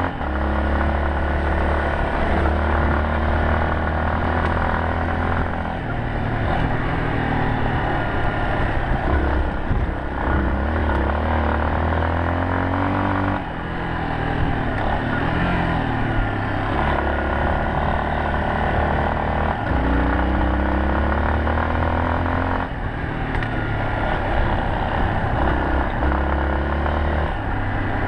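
Yamaha Serow 250 trail bike's single-cylinder four-stroke engine under way, its pitch rising and falling repeatedly as the throttle opens and closes. The sound dips briefly a few times, and a rushing noise sits over the engine throughout.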